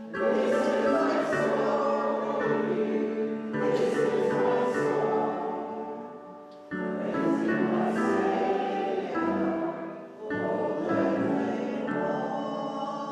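A group of voices singing a hymn or worship song in phrases of three to four seconds over a held low accompanying note, dying away near the end.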